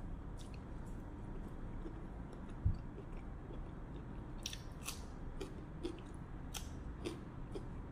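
Close-up sounds of a man chewing and biting into pieces of pork: small wet mouth clicks and crisp ticks scattered through, busier in the second half. A single dull low thump comes about two and a half seconds in.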